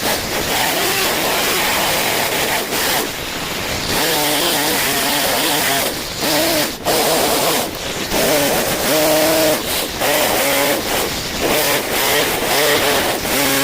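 Chainsaw running and cutting wood, its engine pitch rising and falling with the throttle, with a few brief drops in several places.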